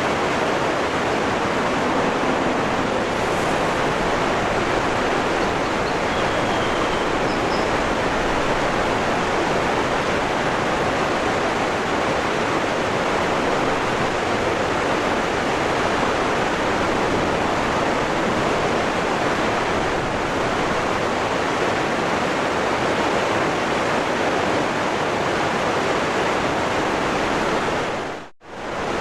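Waterfall rushing in a steady, loud roar of falling water, which drops out for a moment near the end.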